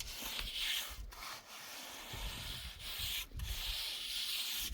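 Repeated long scraping strokes of a hand tool rubbing over a rough surface, each stroke a coarse rasp with brief pauses between.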